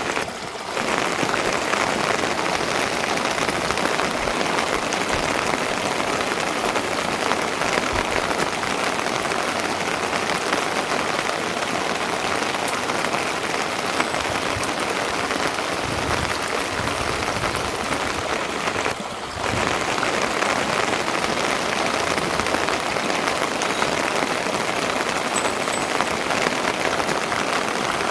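Rain falling steadily, an even patter of drops, briefly dropping away twice: just after the start and about two-thirds of the way through.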